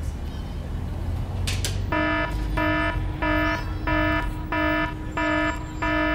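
Electronic wake-up alarm going off about two seconds in: a buzzy beep repeated evenly about one and a half times a second.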